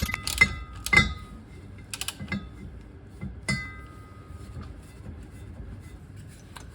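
Several sharp metallic clinks of hand tools and bolts, the loudest about a second in; one about three and a half seconds in rings briefly.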